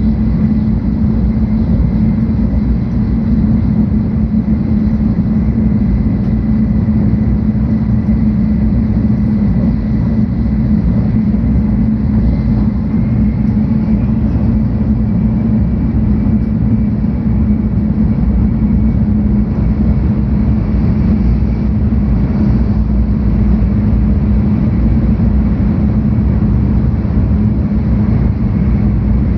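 Cabin noise inside a 700 series Shinkansen train while it runs: a steady low rumble with a constant hum and no breaks.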